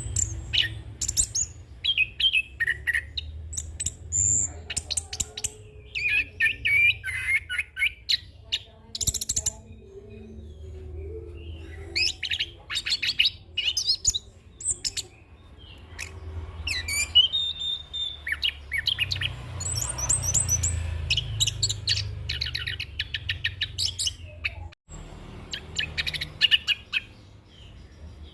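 Chestnut-capped thrush (anis kembang) singing a long, varied rolling song: quick runs of high chirps, trills and mimicked phrases one after another with hardly a pause. A steady low hum runs underneath.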